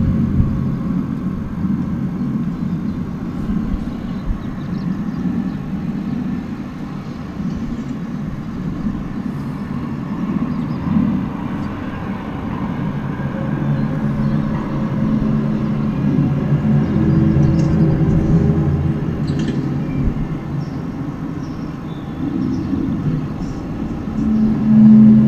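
An unexplained low droning hum of several steady low tones, swelling and easing in loudness, heard from outside: the kind of eerie "strange sky noise" the recorder says has been recurring every ten minutes to half an hour.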